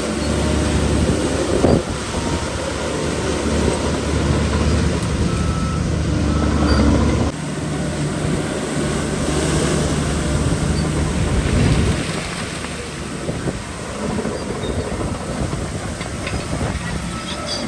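Heavy diesel earthmoving machinery working, a bulldozer or dump truck engine running under load with a low rumble and scattered clanks. The steady engine note drops off about seven seconds in, and the rumble carries on.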